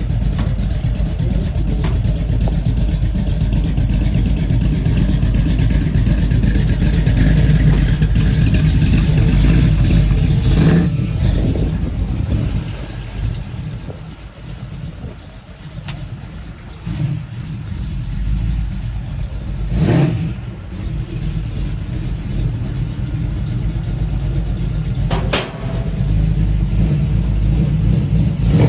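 Pontiac LeMans's swapped-in 5.3-litre LS V8 running with a deep exhaust rumble and being revved, easing back to a quieter idle a little under halfway through. A few short sharp knocks are heard over it.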